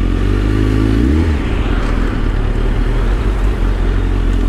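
A 2004 Kawasaki ZX-10R's inline-four engine running at low revs as the bike rolls through slow traffic, with a brief rise and fall in pitch about a second in.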